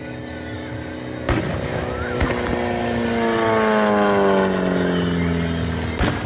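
An engine passing by, its pitch falling steadily as it goes past, with three sharp bangs about a second in, a second later, and near the end.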